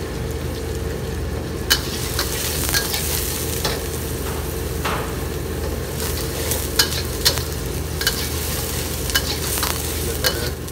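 Chopped onion and green chillies sizzling in oil in a stainless-steel wok while a metal spatula stirs and scrapes them. From about two seconds in, the spatula clinks sharply against the wok again and again, under a steady low hum.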